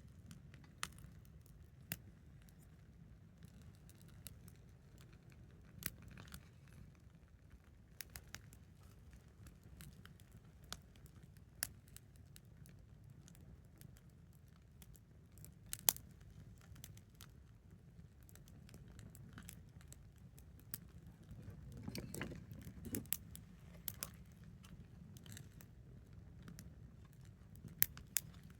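Quiet wood campfire crackling, with sharp irregular pops about once a second over a steady low rumble. The rumble swells briefly about three-quarters of the way through.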